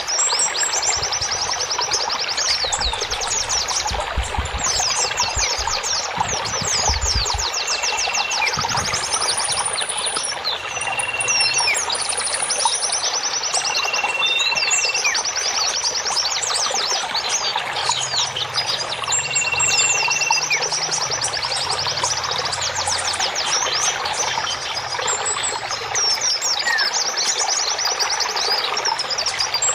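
A dense chorus of songbirds chirping and trilling, with one bird repeating a short level whistle note every couple of seconds, over a steady hiss.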